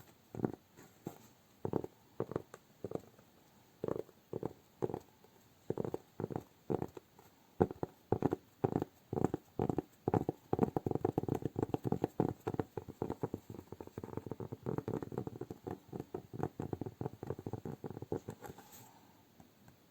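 Close-miked ASMR hand sounds, soft taps or pats: separate and slow at first, then speeding into a dense run of quick strokes for about ten seconds that stops shortly before the end.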